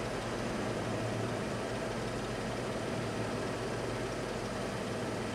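Freight cars loaded with garbage containers rolling past: a steady noise of steel wheels running on the rails, with no breaks.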